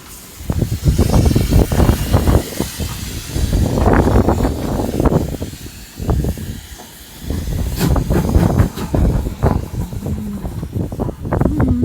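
Steam locomotive hissing steam over an uneven low rumble, the hiss strongest in the first few seconds.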